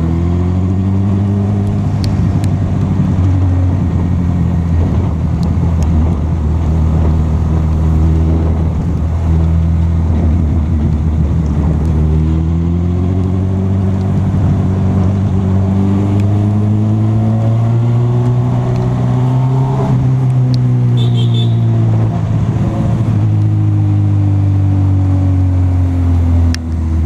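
Honda CB1000R inline-four engine running while riding, its pitch holding steady, then climbing slowly through the middle and falling away again near the end, over a constant rush of wind and road noise.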